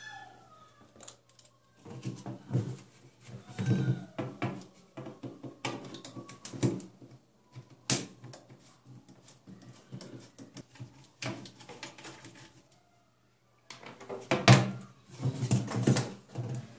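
Irregular clicks, knocks and clatter of hard parts being handled and set down, in a few busy bursts with short pauses between.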